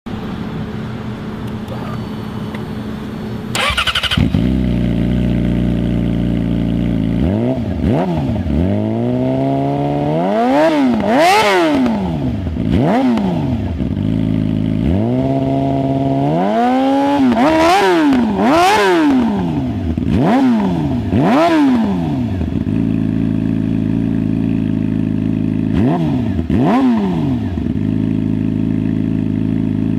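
Yamaha R6 inline-four sport bike engine through a Toce Performance MotoGP-styled single-tip aftermarket exhaust, idling and repeatedly revved in free throttle blips, each rising sharply and falling back to idle. A sudden sharp burst and jump in loudness comes about four seconds in, before the revving begins.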